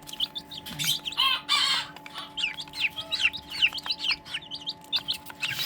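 Serama and pheasant-chicken chicks peeping in many short, quick chirps as they feed, over a faint steady hum from the fan-driven brooder. A louder harsh rasp stands out briefly about a second and a half in.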